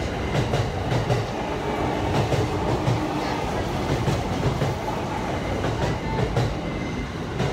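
Passenger train running past the platform as it pulls out: a steady rumble and hiss with wheels clacking over the rail joints.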